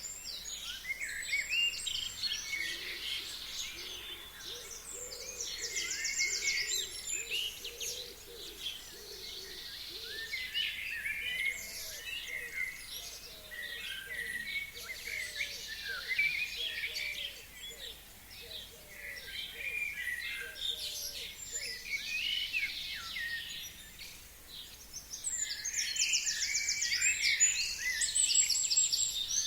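Forest songbirds singing in a dense chorus of overlapping chirps, whistles and fast trills, with buzzy trills recurring near the start, in the middle and again near the end. A faint series of low repeated notes sounds underneath through the middle.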